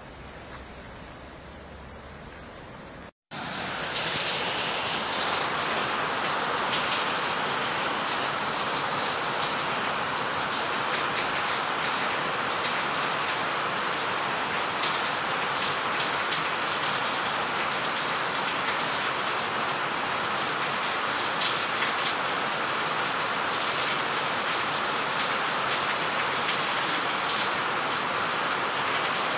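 Steady, loud rush of water, an even hiss with a few faint ticks in it. It starts after a quieter stretch of noise and a brief cut about three seconds in.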